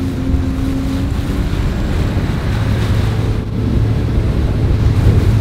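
Sea-Doo RXT 300 jet ski running on the water, with wind buffeting the microphone and water rushing; a steady low engine hum settles in about halfway through.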